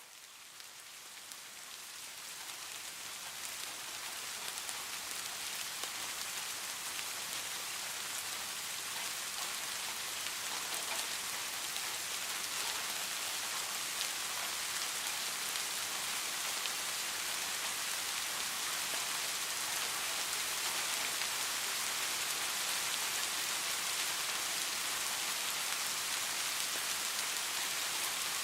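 Steady rain falling, an even hiss of many drops, fading in over the first few seconds and then holding level.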